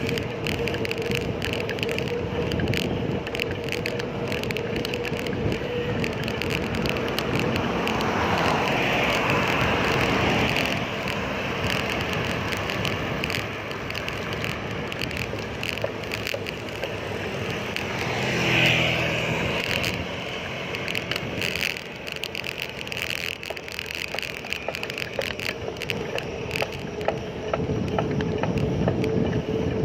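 Road and wind noise from a bicycle ride in traffic, with small rattles throughout. A motor vehicle seems to pass twice, about eight seconds in and again near nineteen seconds, the second louder.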